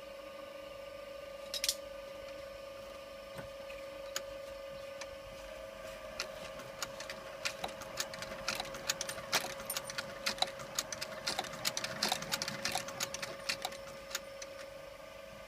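Claes 213 saddler's sewing machine running with a steady motor hum while its mechanism clacks through a run of stitches: a few scattered clicks at first, a quick busy patter in the middle, thinning out near the end.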